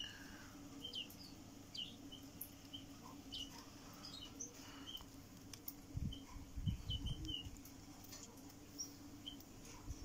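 Faint, short high chirps of small birds, scattered a few times a second. A few low thumps come about six to seven and a half seconds in.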